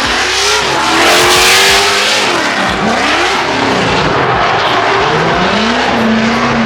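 Competition drift cars sliding past at close range, their engines revving up and down with the hiss of spinning tyres, loudest about a second or two in.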